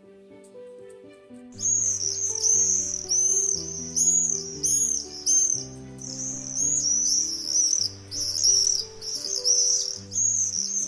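Common swifts screaming: a dense run of shrill, high calls in quick succession, starting about a second and a half in. Soft background music with sustained notes plays underneath.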